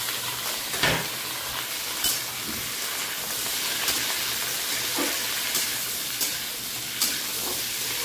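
Pointed gourd and potato pieces sizzling steadily as they fry in a metal kadai, with a metal spatula stirring them and now and then clinking and scraping against the pan.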